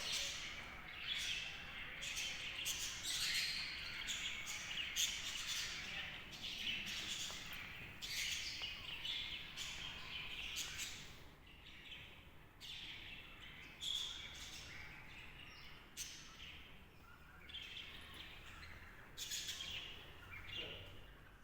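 Birds chirping, with many short calls following one another without a break.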